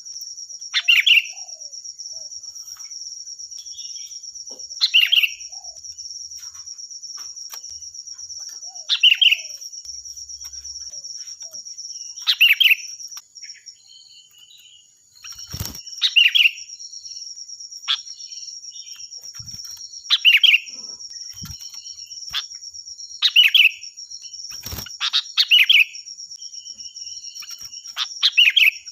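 A sooty-headed bulbul sings loud, shrill, short song phrases, repeated about every four seconds, with two in quick succession near the end. Under the song runs a steady high-pitched drone.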